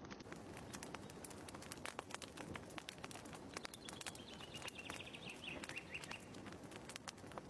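Wood fire crackling in a fireplace: irregular pops and snaps over a low hiss. A faint chirping trill, falling slightly in pitch, sounds through the middle.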